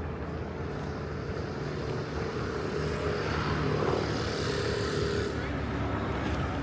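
A vehicle passing by, its engine hum swelling to a peak about four seconds in and then easing.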